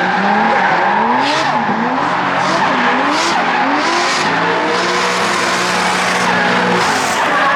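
Drift cars drifting: engines revving up and down at high rpm, with repeated bursts of tyre squeal as the tyres slide. More than one engine is heard at once, and one holds a steady pitch for a couple of seconds near the end.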